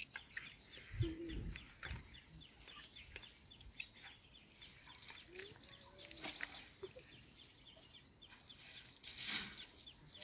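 Birds calling, with a fast rattling trill about halfway through and a brief rustling noise near the end.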